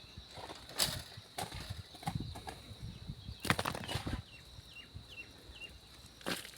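Scattered knocks and scrapes from work being done by hand, with a bird giving four short falling chirps in quick succession about halfway through.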